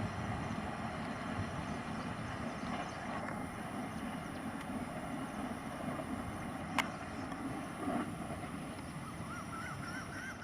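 A passing train's rumble fading steadily as it moves away, with wind on the microphone. A single sharp click comes about two-thirds of the way through, and a faint warbling call near the end.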